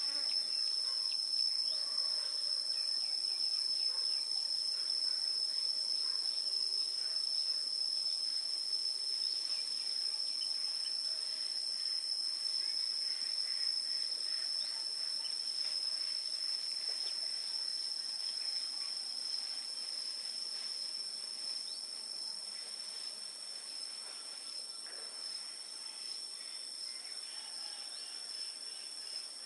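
Steady, high-pitched insect chorus, a continuous trill of crickets, slowly getting quieter over the second half.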